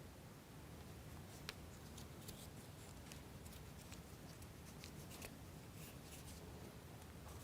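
Near silence with a few faint, scattered clicks and rustles: hands handling small plywood model parts and a rubber band.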